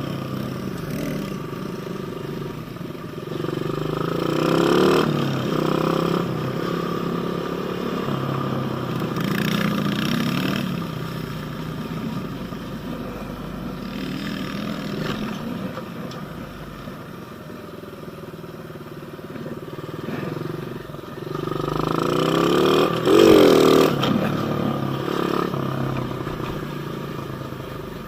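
Pit bike engine running while riding, the revs rising and falling; it revs up hard twice, about four seconds in and again about twenty-two seconds in, the second time loudest.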